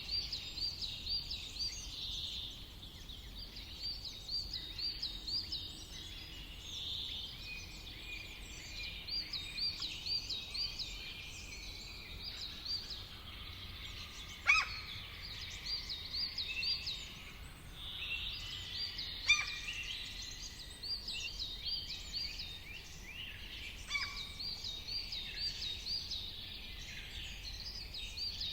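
Several wild birds singing and calling together, with repeated quick series of high looping notes. A few sharper, louder calls stand out about a third of the way in, around two-thirds and near 24 seconds.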